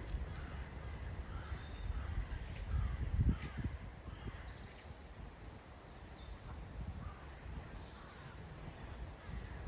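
Birds calling over and over, short harsh calls like crows cawing, over a low rumble that swells briefly about three seconds in.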